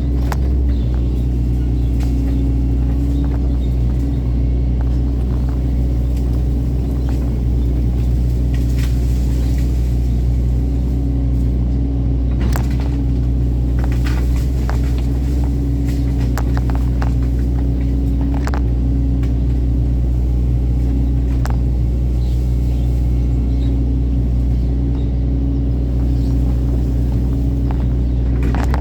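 Excavator's diesel engine running steadily under load, with scattered sharp cracks and knocks over the middle of the clip.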